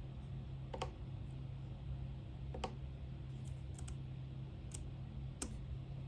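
A few scattered light clicks from work at a desk, some in quick pairs a little past the middle, over a steady low hum.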